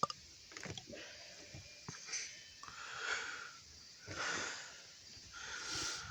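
Breathing close to the microphone: about four soft, wheezy breaths, with a few small clicks near the start.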